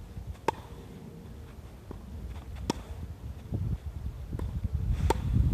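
Tennis balls being struck with rackets in a volley-and-stroke rally: three sharp hits about two seconds apart, with fainter knocks between them. Low wind rumble on the microphone builds toward the end.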